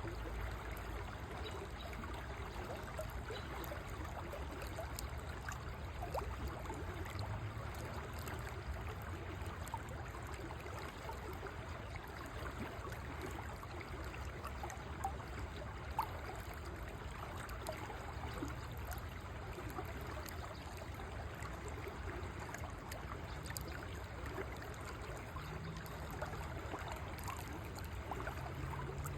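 River water flowing steadily, a continuous rushing and trickling with a low rumble underneath; one brief louder splash about halfway through.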